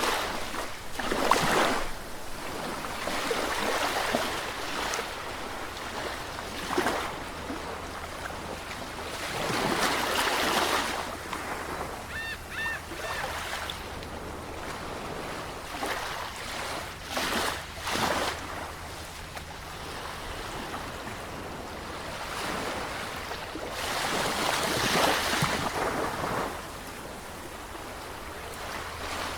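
Sea waves breaking and washing ashore, swelling and falling back every few seconds. A brief high call, like a bird's, cuts in about twelve seconds in.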